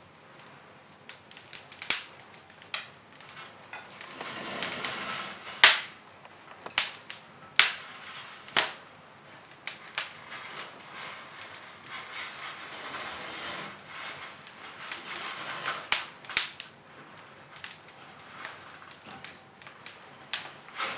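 Wood fire crackling in a fireplace: irregular sharp pops and snaps over a soft hiss that swells twice.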